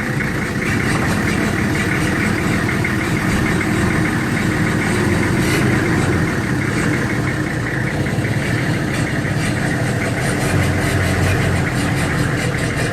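Large diesel engine running steadily at idle.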